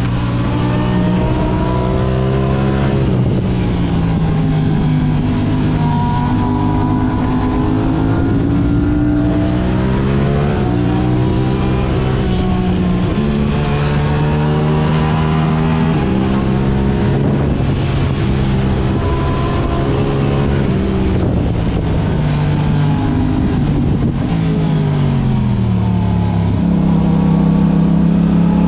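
Yamaha R6 inline-four sport bike engine through an Akrapovic exhaust, ridden hard. The revs climb and drop again and again, with sudden pitch steps at gear changes.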